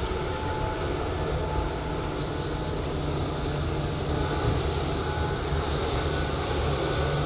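Airliner jet engines running: a steady rumble and rush of noise, with a thin high-pitched whine that comes in about two seconds in and holds.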